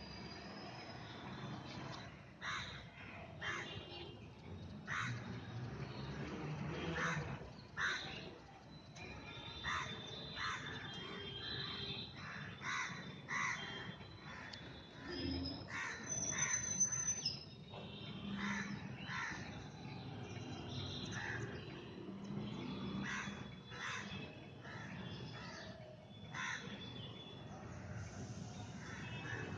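Birds calling: many short harsh calls, about one every second or so, with thinner high chirps between them.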